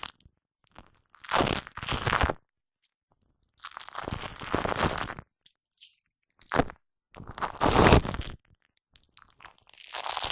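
Shaving foam squished and rubbed directly on a condenser microphone, giving sticky, crackling crunches. It comes in about five separate passes of a second or so each, with short silent gaps between them.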